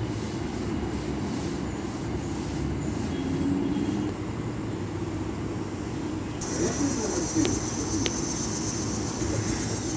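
Steady low rumble of a distant Metro-North M3 electric train on the line. About six seconds in, a high steady insect buzz joins it.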